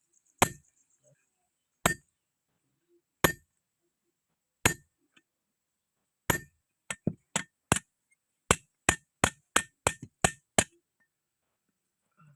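Blacksmith's hammer striking metal on an anvil, each blow ringing briefly: five slow, evenly spaced blows, then about halfway through a quicker run of about a dozen lighter blows, about three a second, that stops near the end.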